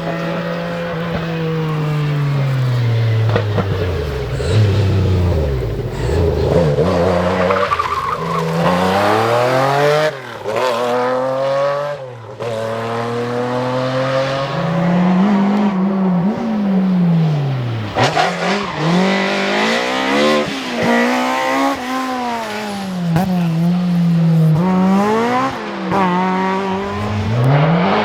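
Rally car engines at full throttle, revving up and dropping again and again through gear changes and lifts as the cars are driven hard on a stage. Brief dips in the engine note come at about ten and twelve seconds in.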